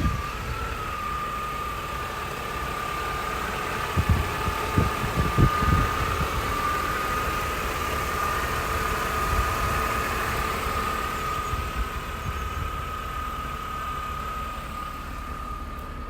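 1996 Mercedes SL320's 3.2-litre straight-six idling just after a cold start, with a steady high-pitched whine over it and a few low thumps about four to six seconds in.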